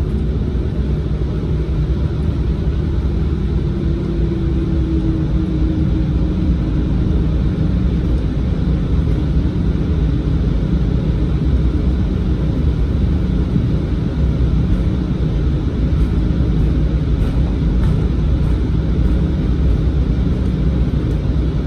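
Steady low rumble inside the cabin of an Embraer regional jet, its turbofan engines running as it taxis to the runway. A faint tone drifts slightly in pitch about four to six seconds in.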